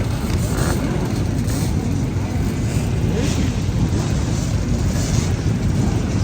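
Several motorcycle engines running together, with occasional rising revs.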